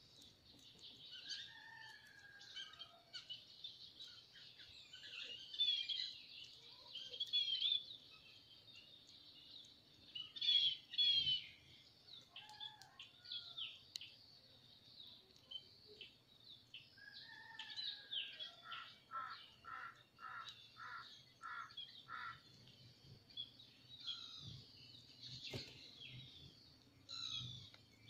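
Small birds chirping and calling in many short, high notes. A louder flurry of chirps comes about ten seconds in, and a little past halfway there is a run of about eight evenly spaced lower notes, roughly two a second.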